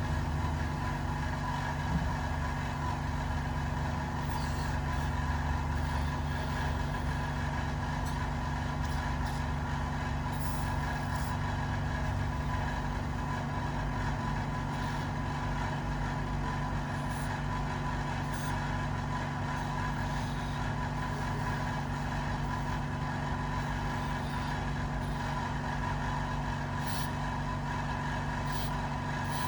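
A cleaning machine running steadily with an even hum and several constant tones, cleaning the injector's internal parts.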